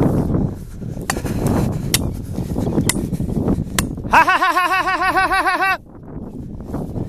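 Wind buffeting the microphone, then about four seconds in a bird gives a loud, rapid run of about a dozen rising-and-falling calls, about seven a second, that stops abruptly after under two seconds.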